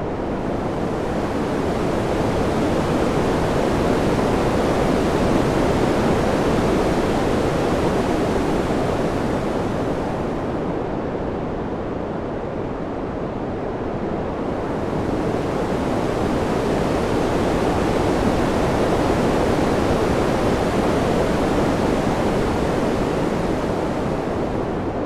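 Steady rushing wind sound that swells and eases slowly: it builds over the first few seconds, dips about halfway through, swells again, and eases off near the end.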